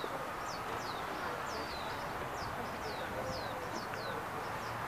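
Small birds chirping: a quick, irregular run of short, high chirps, each sliding down in pitch, about two or three a second, over steady background noise.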